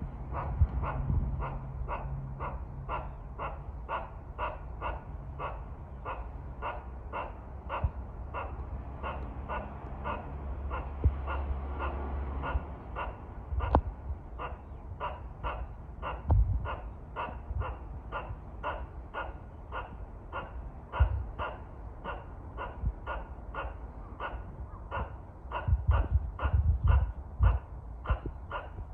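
Squirrel giving a long run of short, barking calls, about two a second, evenly spaced; a scolding call aimed at birds. Occasional low thumps sound underneath.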